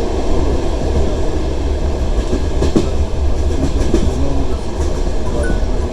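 Passenger train running along the line, heard from inside the carriage: a steady rumble of wheels on rails, with a few clicks over rail joints in the middle.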